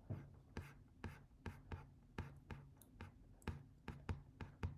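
Clicking of a computer mouse and keyboard, sharp irregular clicks about three a second, over a faint steady low hum.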